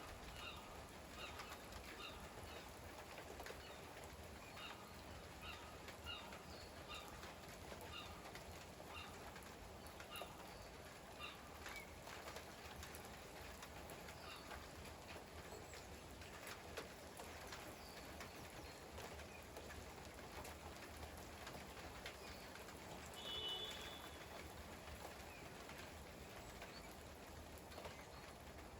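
Faint steady rain with scattered drip ticks, and a small bird chirping over and over, a little faster than once a second, for the first twelve seconds or so. A single short, higher call about two-thirds of the way through.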